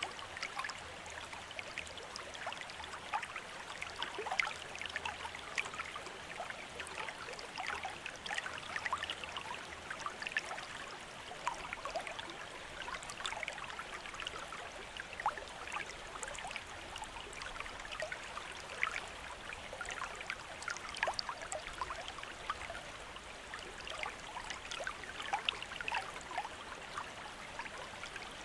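Bamboo water fountain: water trickling and splashing steadily from the spout, with many small irregular drips and splashes over a constant flow.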